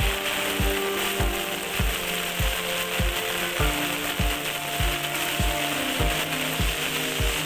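Heavy rain pouring on a city street: a steady hiss. Beneath it, a low thump repeats evenly about every 0.6 seconds, along with soft sustained tones.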